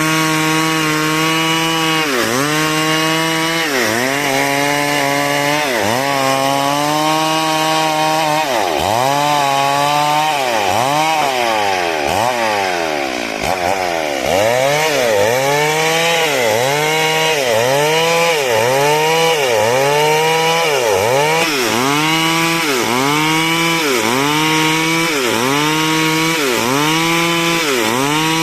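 Two-stroke chainsaw running at high revs while cutting wood. The engine note dips and recovers over and over, about every two seconds at first and about once a second in the second half, with a slower, lower wavering in the middle.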